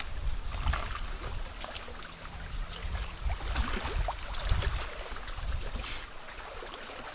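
Wind rumbling and buffeting on the microphone, with scattered small clicks and scuffs throughout.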